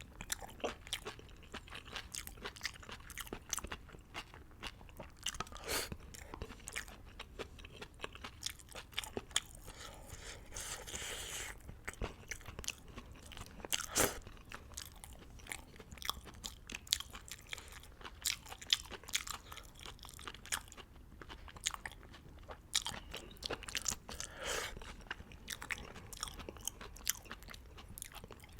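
Close-miked chewing of Vietnamese beef hot pot noodles: a steady run of wet mouth clicks and smacks, with a longer noisy stretch about eleven seconds in.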